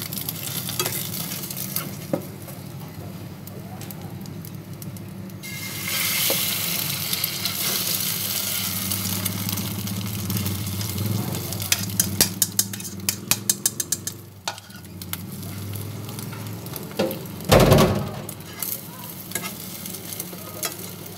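Egg-coated bread frying in hot cooking oil in a nonstick pan, sizzling steadily; the sizzle grows much louder about six seconds in, as more egg is poured into the oil. A fork clicks and scrapes against the pan, and one loud knock comes near the end.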